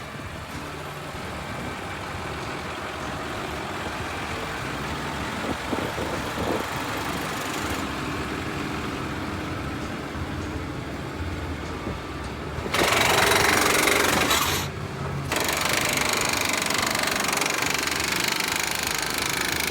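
Truck engine running steadily, growing slowly louder, with a louder noisy surge about 13 seconds in that lasts about two seconds, then running steadily at a higher level, as when the crane is worked.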